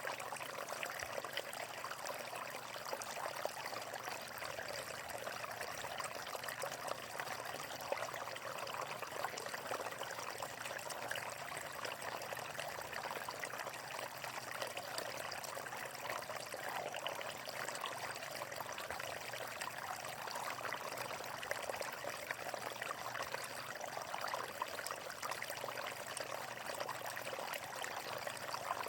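Water flowing and splashing steadily, a continuous rushing and trickling with no change in level.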